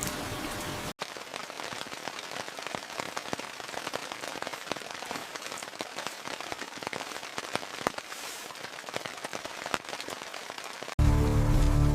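Rain falling, a dense patter of individual raindrops striking a surface, with a sudden change in the rain sound about a second in. Music starts abruptly near the end.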